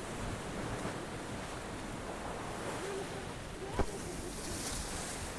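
Sea waves washing in, with wind buffeting the microphone. A single sharp click comes a little under four seconds in.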